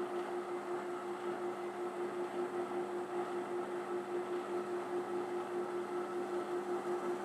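Steady hum of a power sanding tool running at about 1,000 RPM while it smooths the inside of a drilled hole in wood, with a light regular pulse about three times a second.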